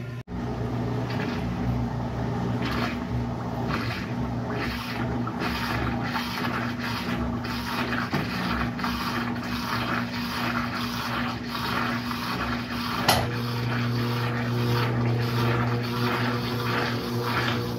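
Brastemp Sexto Sentido 8 kg washing machine running, its motor humming steadily under a rhythmic swish that repeats about every two-thirds of a second. There is one sharp click about 13 seconds in.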